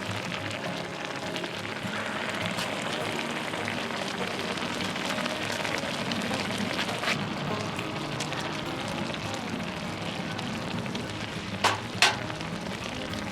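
Steady crackling sizzle from cooking over heat, with a sharp pop about seven seconds in and two louder pops close together near the end.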